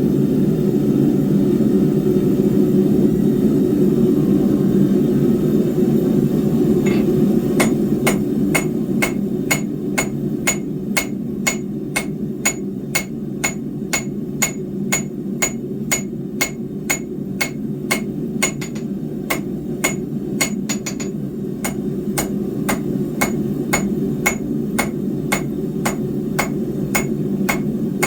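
Hammer blows on hot steel bar over an anvil, starting about seven seconds in and going on at a steady pace of about two strikes a second, each with a bright metallic ring. A steady low rushing noise runs underneath throughout.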